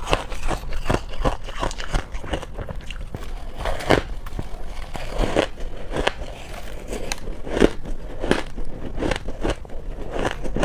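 Close-miked biting and crunching of soft, chunky freezer-frost ice, a run of irregular crisp crunches, several a second.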